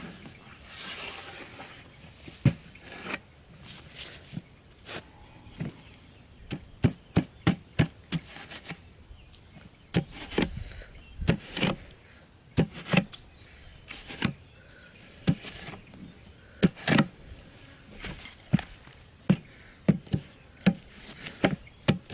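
Wood being chopped with a blade: an irregular run of sharp strikes, at times two or three a second, with short pauses between.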